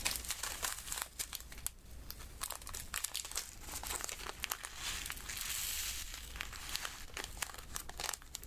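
Diamond-painting work: small resin drills being picked up with the drill pen and tapped one by one onto the sticky canvas, a run of small irregular ticks and sticky crackles. A brief soft rustling hiss comes about five to six seconds in.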